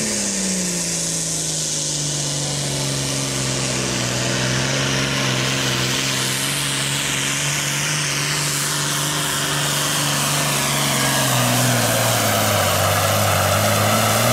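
John Deere Super Farm pulling tractor's diesel engine, limited to 640 cubic inches, running at full power under load down the track with a steady drone and a high rushing hiss. The engine pitch sags twice near the end as the load pulls it down.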